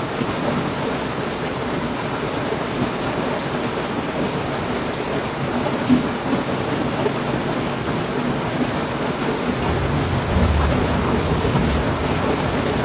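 Heavy rain falling steadily, a dense even hiss. A low rumble of thunder comes in near the end.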